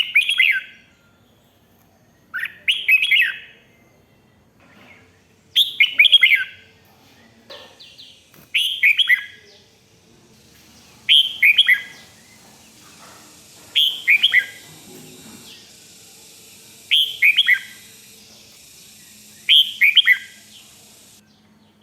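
Red-whiskered bulbul singing: a short, loud phrase of quickly falling whistled notes, repeated about every three seconds, eight times.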